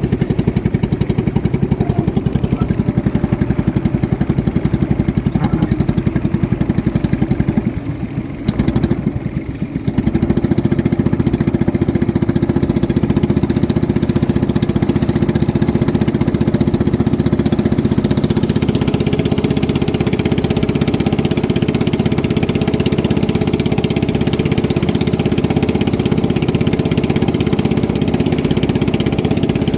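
Racing motorboat engine running loud and steady at speed. The sound drops away briefly about eight seconds in, then returns stronger.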